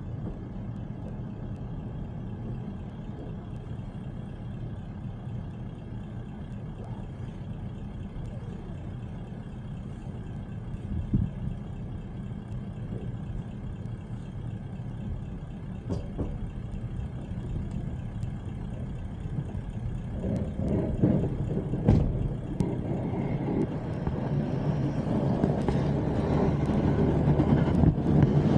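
A car driving: steady low road and engine noise, with a few short knocks, growing louder over the last several seconds.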